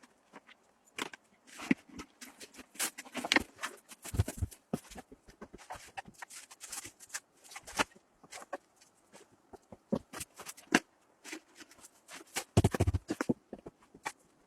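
A string of irregular clicks, knocks and scrapes, with heavier thumps about four seconds in and again near the end.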